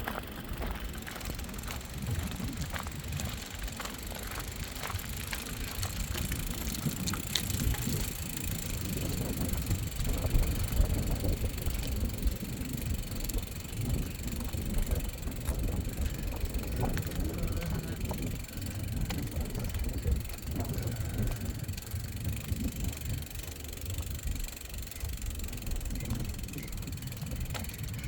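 Wind buffeting the phone's microphone outdoors, a low uneven rumble, with faint scattered ticks.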